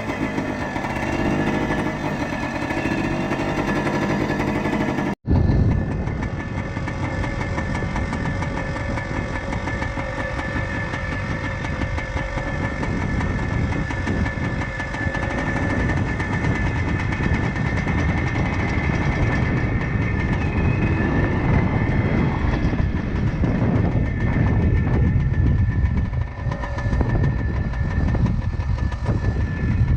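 1976 Kawasaki KT250's single-cylinder two-stroke engine running as the trials bike is ridden, its pitch rising and falling in the first few seconds. The sound cuts out for an instant about five seconds in, then the engine runs on steadily.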